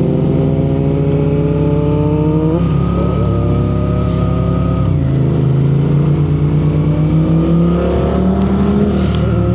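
Motorcycle engine accelerating through the gears, its pitch rising steadily and dropping abruptly at upshifts about two and a half and five seconds in, then climbing again.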